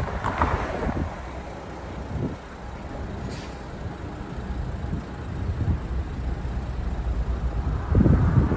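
Wind buffeting the microphone over a steady low rumble of road traffic, with stronger gusts at the start and again near the end.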